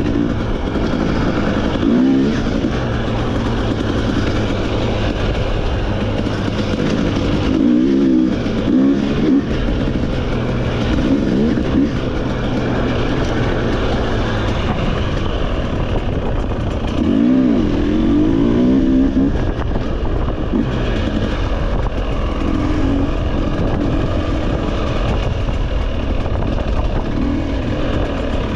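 Off-road motorcycle engine running under a rider on a dirt trail, the revs rising and falling again and again as the throttle is opened and eased off, over a steady rushing noise.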